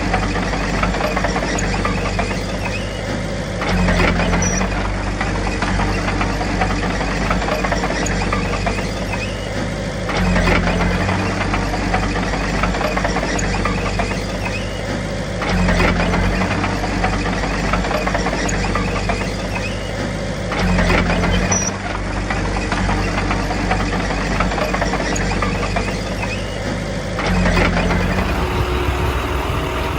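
Komatsu D21P bulldozer's diesel engine running continuously, swelling in level and pitch about every five to six seconds as it takes load, with some clatter at each swell.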